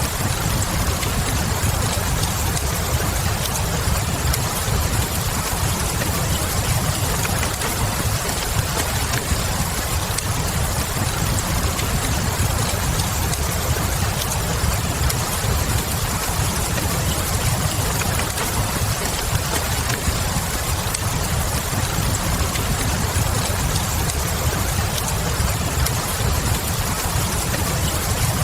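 Steady rain mixed with soft log-fire crackle, over an even low rumble.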